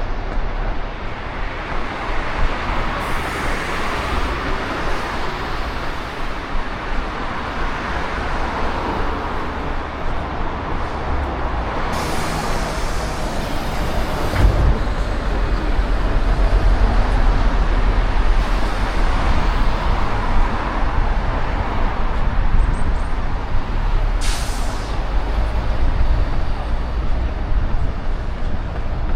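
City street traffic noise, a continuous rumble of passing vehicles, with short sharp hisses about twelve and twenty-four seconds in that fit a bus's air brakes.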